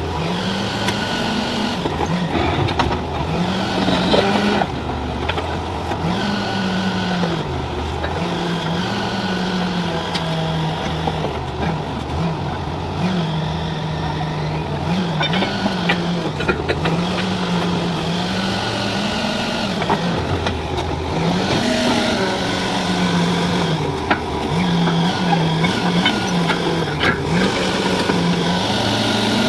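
Borewell drilling rig's engine running under load, its pitch rising and falling every second or two.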